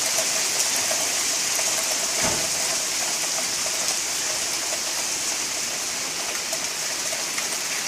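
Heavy hail and rain coming down steadily, a constant even hiss. There is a brief low thump a little over two seconds in.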